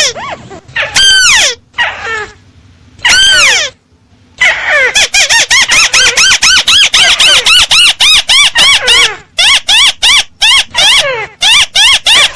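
Crake (burung tikusan) call played as a bird-trapping lure: a fast, steady string of repeated arched notes, each rising and then dropping in pitch, several a second. It comes in short bursts with gaps during the first few seconds, then runs on unbroken.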